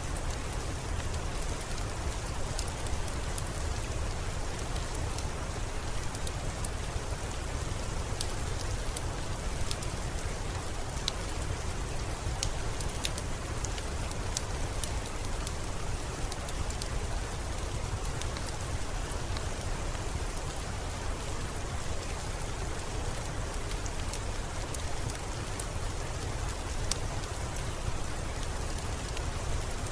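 Steady rainfall with many small, sharp drop ticks scattered through it over a low, even rumble.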